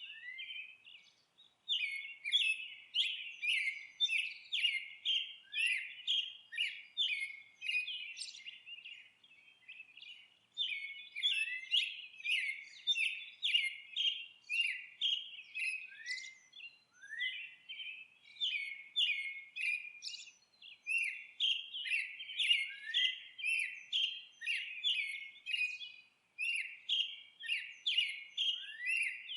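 Songbirds chirping in a rapid, nearly unbroken series of short chirps, several a second, with brief lulls about a second in, around nine to ten seconds in and near the end.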